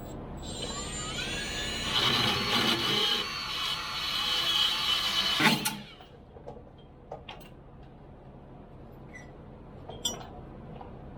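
A power tool runs for about five and a half seconds, its whine climbing at first and then holding steady, and stops with a sharp knock; a few light metallic clicks follow.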